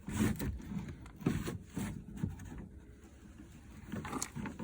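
Irregular rubbing, scraping and light knocks of hands working at a pickup truck's interior door trim.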